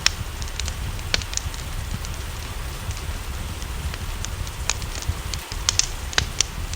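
Wood fire crackling, with scattered sharp pops, over a steady hiss of rain and a low rumble.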